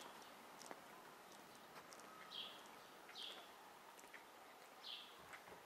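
A few faint, short bird chirps at irregular intervals against a very quiet woodland background, with a few light ticks.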